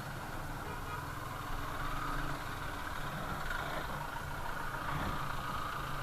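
Vehicle engine running steadily with a low hum, mixed with road noise.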